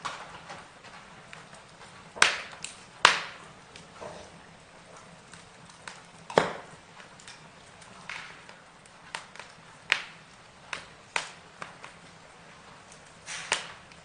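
Wood fire crackling: irregular sharp pops and snaps over a faint hiss, the loudest about two, three and six seconds in.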